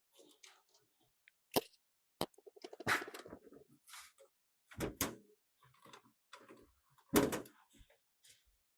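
A series of sharp knocks and clicks from hard objects being handled, with a short rattling scrape about three seconds in. The loudest knock comes near the end.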